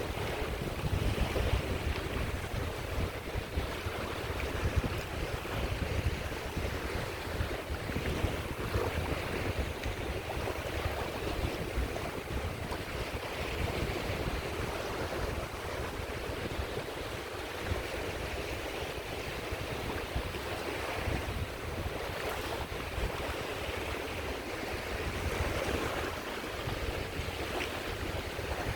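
Small sea waves breaking and washing on the shore of the Caspian Sea, a continuous surf wash that swells and eases, with low rumble from wind on the microphone.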